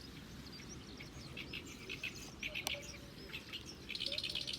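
Small birds chirping in short repeated calls, with a fast rapid trill near the end, over a steady low background rumble. A single sharp click about two and a half seconds in.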